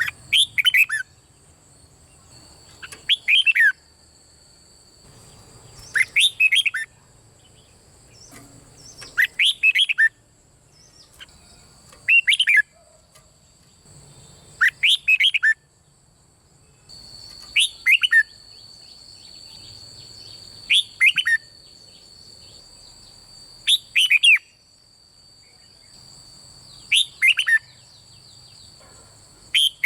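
Red-whiskered bulbul singing short, rich whistled phrases, each about a second long, repeated about every three seconds.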